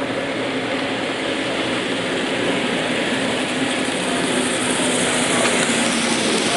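Model trains running on a layout: a steady rumbling hum with a faint low tone underneath.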